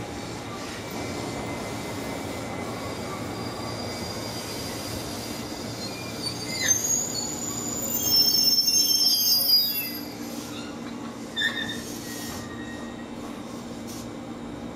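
East Japan Railway Takasaki Line electric train rolling slowly into a station and braking to a stop, its wheels rumbling steadily on the rails. Partway through come a few seconds of high-pitched brake squeals, then one more brief squeal as it comes to rest.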